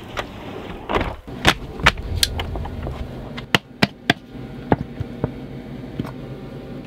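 Irregular sharp clicks and knocks, about a dozen spread over several seconds, over a low steady hum.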